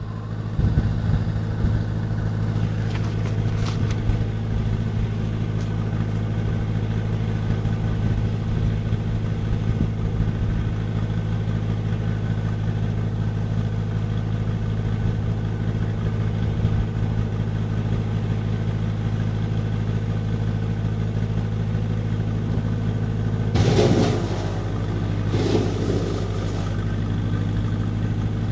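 Tractor engine running at a steady, unchanging speed. Near the end two short, louder noises break over the engine note.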